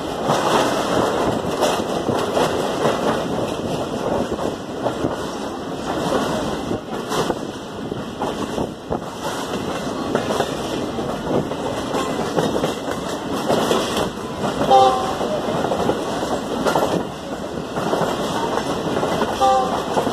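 Passenger coach of a moving express train, heard through an open window: steady rumble and rattle of the wheels on the rails with wind, and a few irregular knocks. Two short pitched tones sound about 15 seconds in and again near the end.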